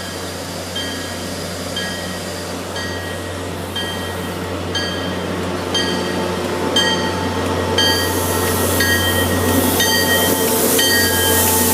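A bell dinging about once a second beside an MBTA commuter train, over the train's steady low hum; a broad rushing noise grows louder from about eight seconds in.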